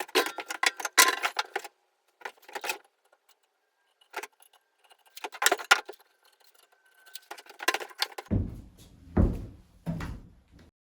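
Clattering and knocking of wooden pieces and tools being handled in several short bursts, with a few heavier, deeper thumps near the end.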